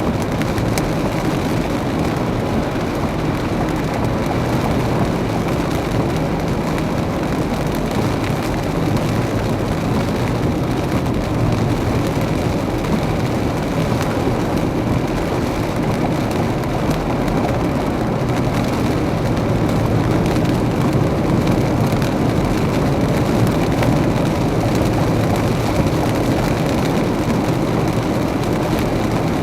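A car driving through heavy rain: steady road and tyre noise mixed with rain.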